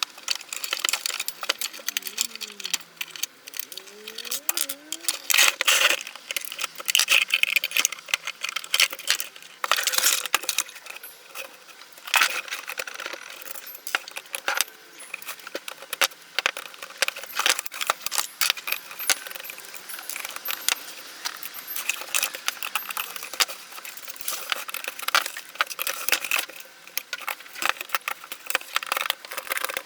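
Close clicking, tapping and rattling of small hard parts and tools being handled while a Nespresso coffee machine is taken apart, with screws and plastic and metal pieces knocking together. A brief creaking squeak a few seconds in.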